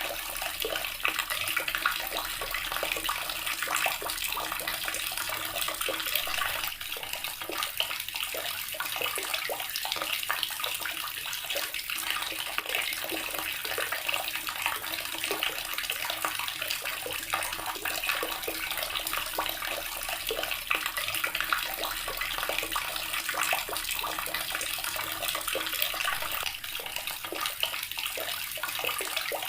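Water running from a tap in a steady, unbroken stream, splashing.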